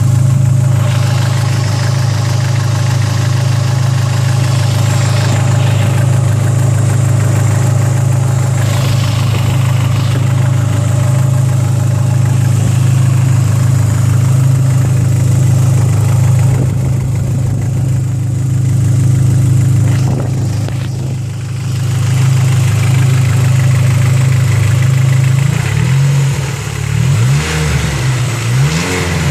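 Turbocharged 2.4-litre four-cylinder of a 2004 Dodge Neon SRT-4 with a big turbo, idling steadily through a custom 3-inch exhaust. Near the end it is revved a few times in short blips.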